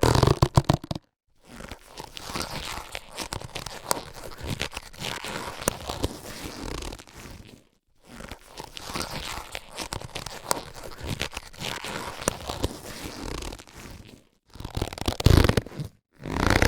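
Latex surgical gloves being handled, rubbed and stretched: a crackly rubbing full of small clicks, in two long passages with brief silent breaks between them, and louder bursts of stretching near the start and about a second before the end.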